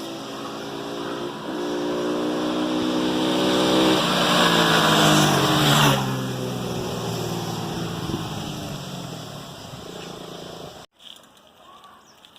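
Single-cylinder sport motorcycle accelerating hard, its engine note stepping up with each gear change. It then passes close by with a loud rush, its pitch sliding down as it draws away and fades. The sound cuts off abruptly near the end.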